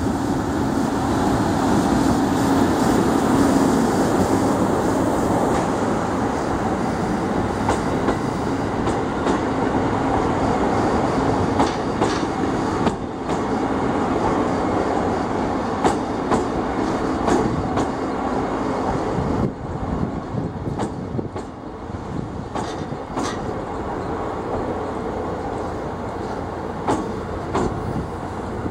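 A train rolling through a station over rail joints: a steady rumble of wheels on rail with irregular clacking. It is loudest a few seconds in and grows quieter after about twenty seconds.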